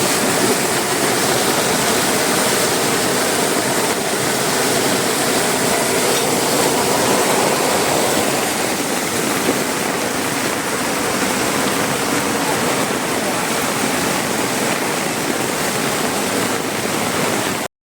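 Floodwater rushing down a road in a steady loud roar of water, cutting off suddenly at the very end.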